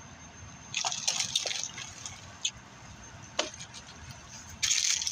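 Plastic water bottle being handled and drunk from: two short bursts of crinkling and sloshing, about a second in and near the end, with a couple of single clicks between them.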